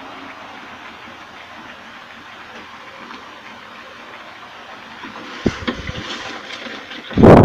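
Spice paste frying in oil in a metal wok, a steady sizzle while it cooks down until the oil separates. From about five and a half seconds a wooden spatula stirs it, knocking and scraping against the wok, with one loud scrape near the end.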